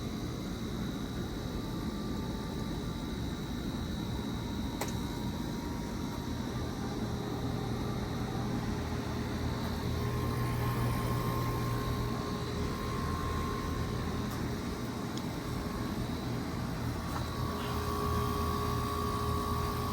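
Goodman GSZ14 1.5-ton heat pump outdoor unit running during its defrost cycle: a steady compressor hum with a whine that grows louder about halfway through and again near the end.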